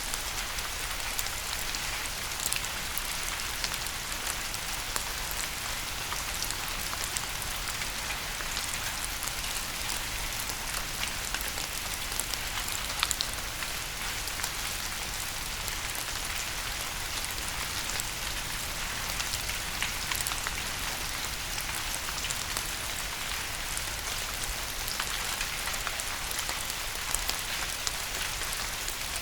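Steady rain falling, a dense hiss of drops with many small sharp individual drop impacts scattered through it, over a faint low rumble.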